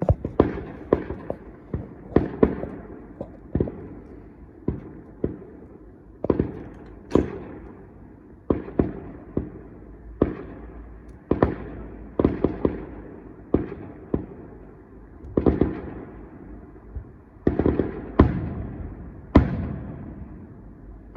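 Fireworks going off in a continuous series of sharp bangs, about one to two a second, each followed by a short echoing rumble.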